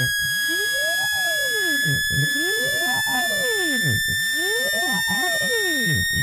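Synthetic speaker-cleaning tone meant to vibrate water out of a phone speaker: a steady high-pitched tone slowly rising in pitch, with a fainter lower tone sweeping up and down about once a second.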